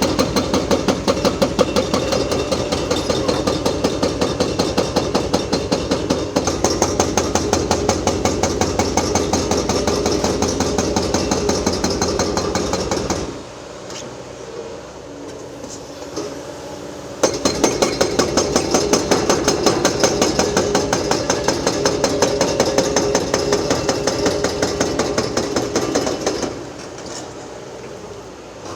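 Excavator-mounted hydraulic breaker hammering concrete with rapid, regular blows. It pauses for about four seconds midway and stops shortly before the end, leaving a quieter engine running in the gaps.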